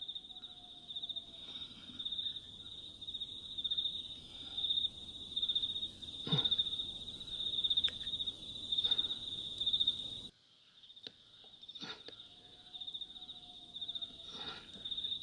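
Insects chirring in a steady, fast-pulsing high trill, with a few faint knocks. The sound drops out briefly about ten seconds in.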